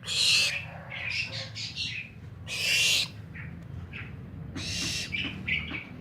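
Barn owl giving three harsh, hissing screeches of about half a second each, with short chittering calls in between.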